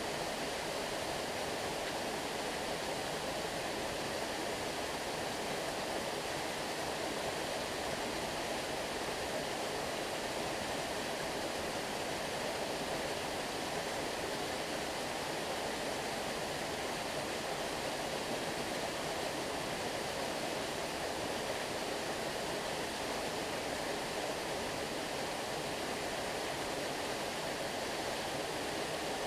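Stream water flowing and rushing steadily, an even, unbroken wash of sound.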